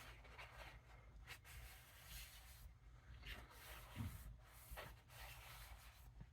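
Faint rubbing and swishing of a paper towel wiped along a knife blade, several irregular strokes, cleaning honing oil off the freshly sharpened carbon steel edge.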